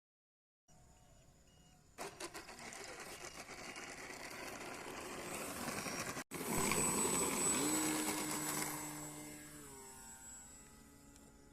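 Engine of a radio-controlled model airplane running, growing louder to a peak partway through, then fading as its pitch slides down near the end.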